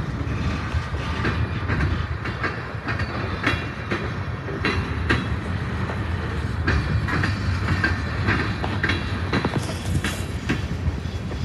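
Freight train of gondola cars and boxcars rolling past: a steady low rumble of steel wheels on the rails, with many irregular clicks and knocks from the wheels and cars.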